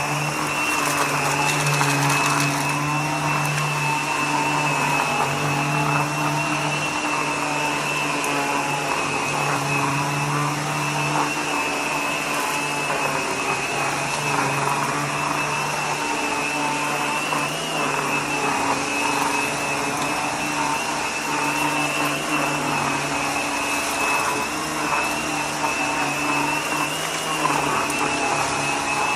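Vacuum cleaner running steadily over an entryway mat: a constant motor whine with a steady high tone over a lower hum and rushing air.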